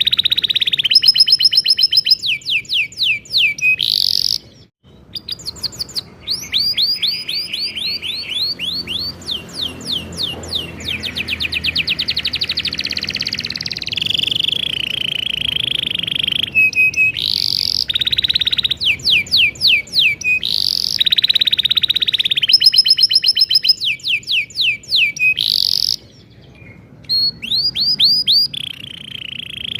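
Domestic canary singing a long rolling song: fast runs of repeated sweeping notes and buzzy trills, changing phrase every few seconds, with brief breaks about five seconds in and near the end.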